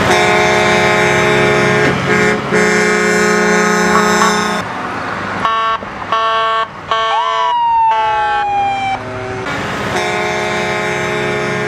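Truck air horns blowing long, held blasts that stop and start, with a siren sliding down in pitch near the middle.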